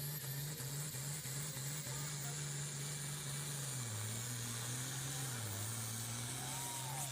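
A distant engine running steadily, its pitch dipping twice briefly.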